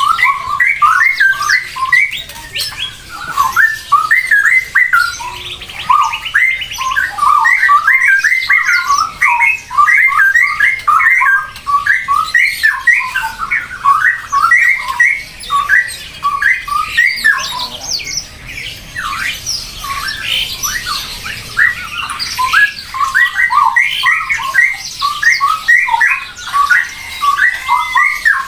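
Birds calling, many short squawking calls in rapid, overlapping succession, thinning briefly about seventeen seconds in before picking up again.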